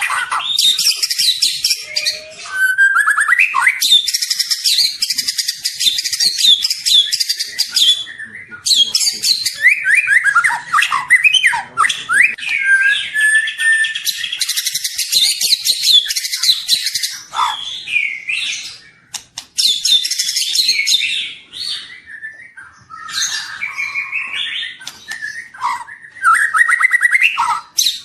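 Young white-rumped shama singing a long, varied song of rapid chattering trills and gliding whistled notes, delivered in long loud phrases with short pauses.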